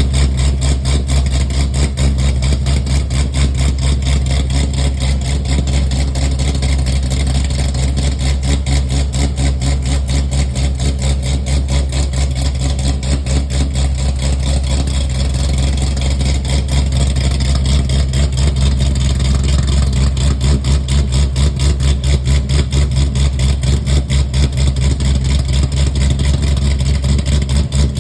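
Corvette C6 Z06's 7.0-litre LS7 V8 with an aftermarket BTR camshaft idling cold, with a steady, choppy lope from the cam.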